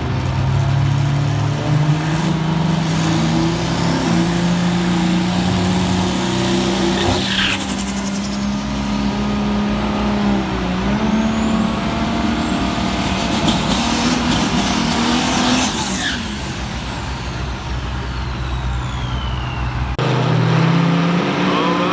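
Diesel drag-racing trucks' engines running and revving, with high whistles that rise and fall twice. The sound changes abruptly about twenty seconds in.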